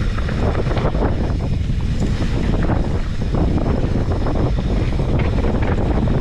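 Wind buffeting the action camera's microphone as the bike runs fast down a dirt trail, with steady low rumble and frequent short rattles from the bike and tyres over the rough ground.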